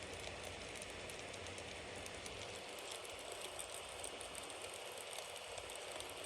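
Wood bonfire burning, crackling with many small quick pops over a steady hiss.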